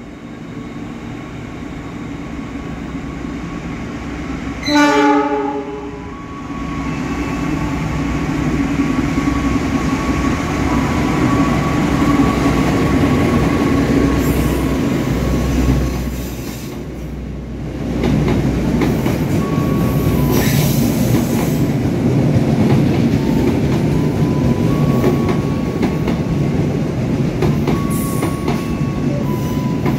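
Argo Lawu express passing straight through the station: its diesel locomotive sounds one horn blast about a second long, about five seconds in. Then comes the steady rumble and clatter of the coaches running past at speed, with short high wheel squeals now and then.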